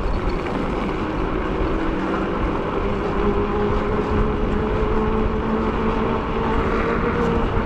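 Steady wind and road noise from riding an e-bike, with a steady low hum that rises slightly in pitch.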